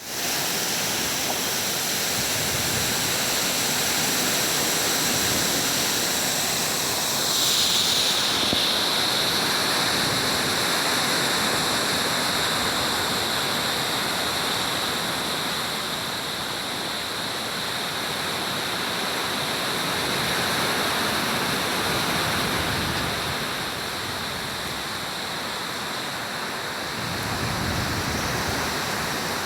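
Heavy rain falling steadily in strong wind: a dense, even hiss that brightens briefly about eight seconds in. A deeper rush joins near the end.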